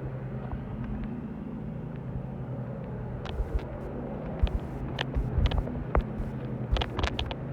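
A steady low mechanical hum, with irregular clicks and low thumps from about three seconds in.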